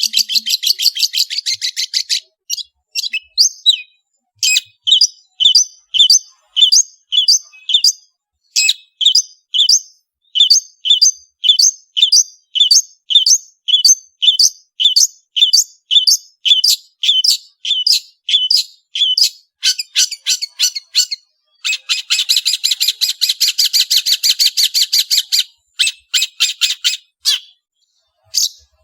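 Long-tailed shrike (cendet) singing loudly. It gives a long run of sharp, high repeated notes at about two a second, broken by fast, rattling chatter at the start and again about 22 seconds in.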